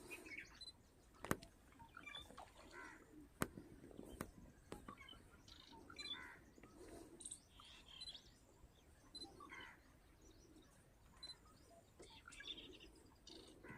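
Faint, scattered bird chirps and calls, with a few sharp clicks in the first few seconds.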